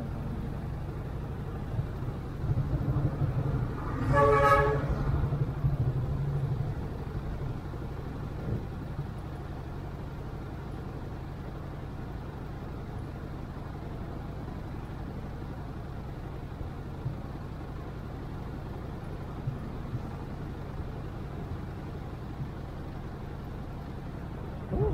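Motorcycle engine idling in stopped traffic, a steady low hum that swells between about two and seven seconds in. A vehicle horn honks once, briefly, about four seconds in.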